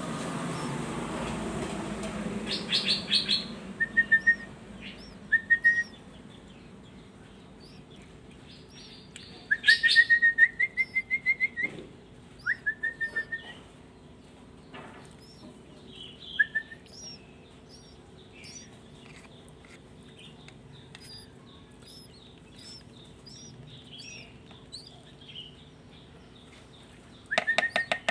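Songbirds calling in short, rapid bursts of sharp chirps and short rising whistled notes, several bursts a few seconds apart, the loudest about a third of the way in, with faint high chirps between them. A brief hiss at the start.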